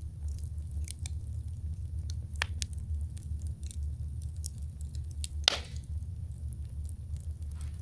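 Wood campfire crackling, with scattered small pops and one louder pop about five and a half seconds in, over a steady low rumble.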